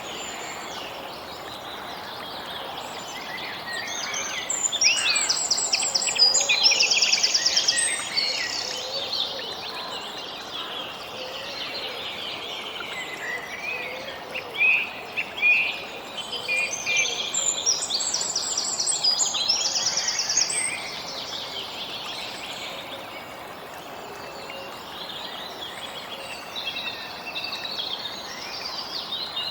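Several birds singing and chirping over a steady background hiss, with two busier, louder bouts of rapid trilling, about five seconds in and again about seventeen seconds in.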